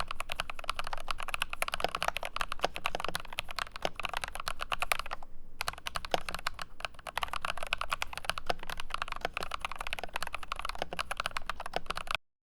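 Fast typing on an IQUNIX ZX75 Gravity Wave mechanical keyboard: a dense, continuous run of key clacks. There is a brief pause a little past halfway, and the typing cuts off suddenly near the end.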